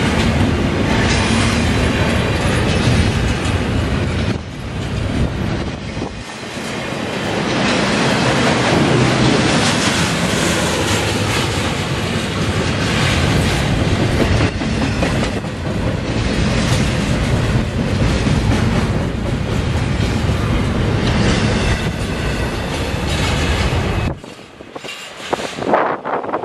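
Double-stack intermodal freight cars rolling past at close range, the steel wheels running over the rails in a steady, loud clatter. The sound drops off suddenly about 24 seconds in as the end of the train goes by.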